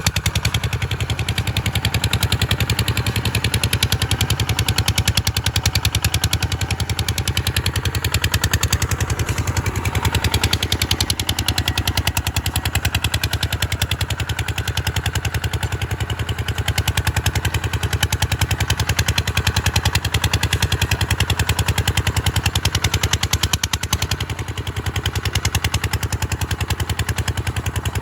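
A small engine running steadily, firing as a fast, even beat of pulses, with a brief dip in level about 24 seconds in.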